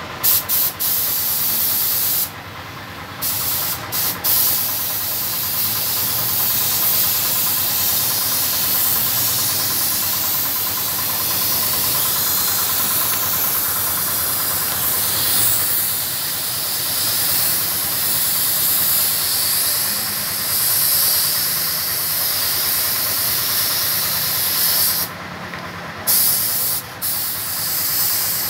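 Air spray gun spraying clear coat onto a car's paintwork: a steady hiss of compressed air and atomised lacquer. The trigger is let off briefly about two seconds in and again near the end.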